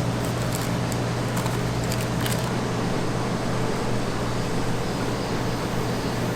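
A steady mechanical hum with a low drone, with a few light clicks in the first two seconds or so.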